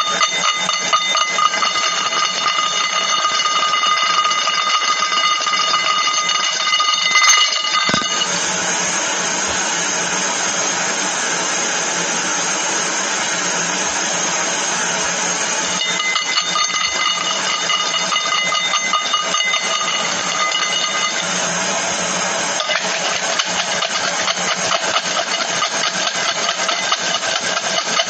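Rapid, continuous clicking, so dense that at times it blurs into a buzz. A faint high ringing tone runs under it for the first third and again a little past the middle.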